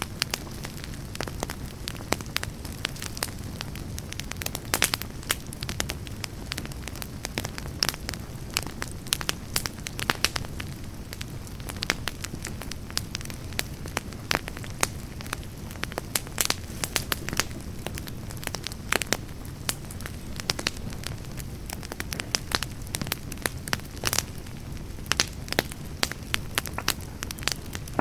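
Wood campfire burning: frequent sharp crackles and pops from the logs over a steady low rush of flame.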